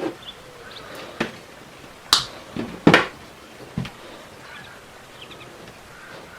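A handful of sharp knocks at irregular intervals, the loudest two coming about two and three seconds in.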